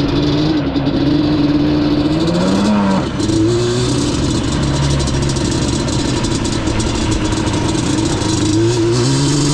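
Yamaha Banshee's twin-cylinder two-stroke engine running. Its revs climb, then drop suddenly about three seconds in, hold steady, and rise again near the end.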